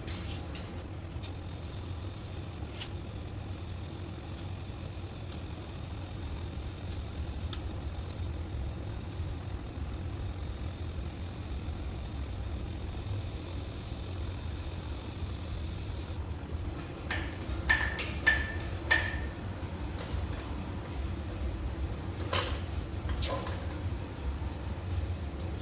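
Workshop noise: a steady low hum with a faint high whine for the first two-thirds, then a cluster of sharp metal clanks and short squeaks about two-thirds of the way in, and a few more knocks near the end.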